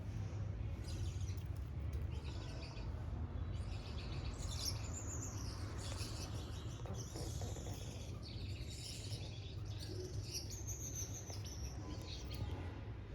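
Small aviary finches chirping and twittering, many short high calls overlapping, over a steady low rumble.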